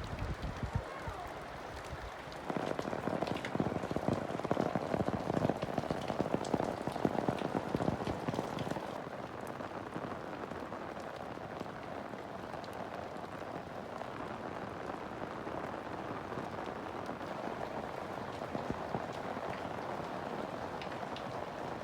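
Rain falling. It grows louder and denser about two and a half seconds in, then eases after about nine seconds to a steadier, lighter fall.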